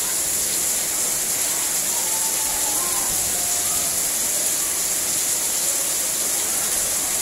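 Heavy tropical downpour falling steadily on tiled paving and garden plants, a dense, even hiss of rain.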